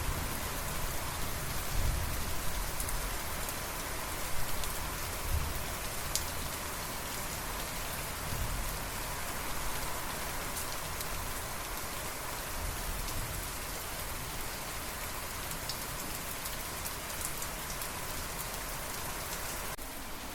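Steady rain falling on a surface, an even hiss with scattered sharper drops. A few low thuds stand out in the first six seconds.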